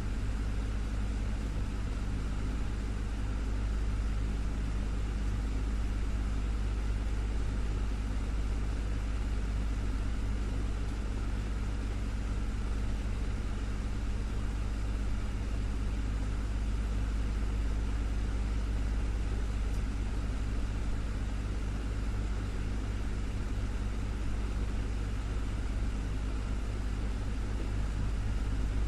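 Desktop fan running steadily: a constant low motor hum with a few steady tones and an even rush of moving air.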